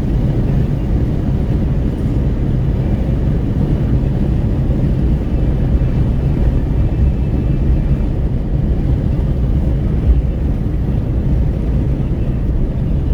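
Wind rushing in through the open window of a Renault Kwid 1.0 driving on the highway, mixed with tyre and road noise; a steady, loud, low-heavy rush.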